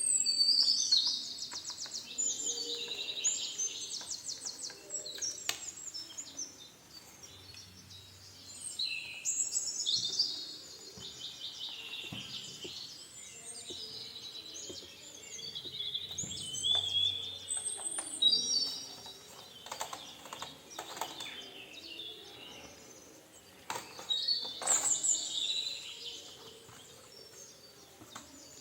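A bird singing in long phrases of fast high trills and warbles, in several bouts, with faint scattered clicks between.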